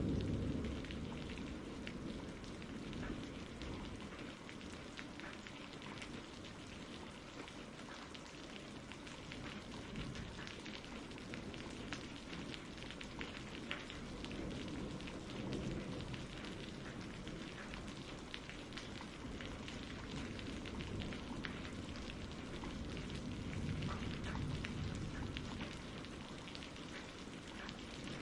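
Steady rain, many drops pattering on a surface, in a gentle storm ambience. Faint low rumbles of distant thunder swell about halfway through and again near the end.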